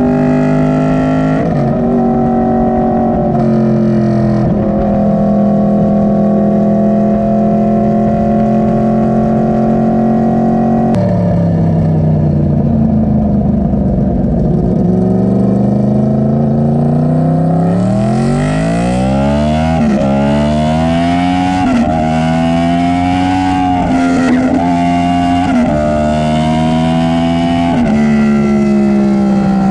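Yamaha R1 inline-four sportbike engine running through its GYTR exhaust with freshly replaced packing, heard on a ride. It holds a steady speed, eases off about eleven seconds in, then accelerates hard from about eighteen seconds, rising and dropping with several quick upshifts before settling into a steady cruise again.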